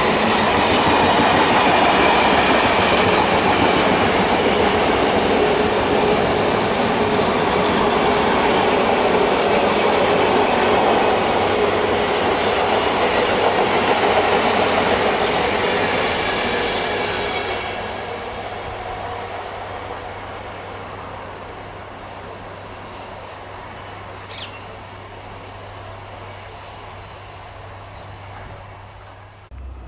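Military freight train of flat wagons loaded with armoured vehicles and trucks rolling past, the wagons' wheels on the rails making a loud, even rolling noise. About two thirds of the way through it drops to a quieter, more distant rumble, with a brief high squeal near the end.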